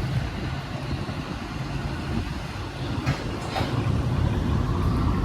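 Ford Mustang GT's 4.6-litre two-valve V8 running steadily under way, heard as a low exhaust rumble that grows a little louder about three and a half seconds in.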